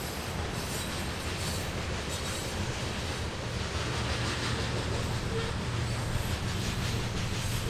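A train running along its track: a steady rumble and rail noise that grows a little louder in the second half.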